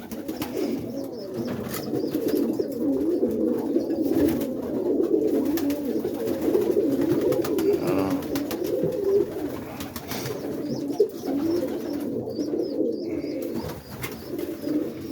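Roller pigeons cooing steadily, several birds overlapping in a continuous murmur.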